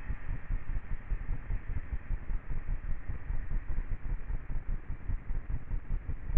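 Low, uneven rumble of a train carriage in motion heard from inside, pulsing irregularly with no clear rhythm. It ends in a sharp click as the recording cuts off.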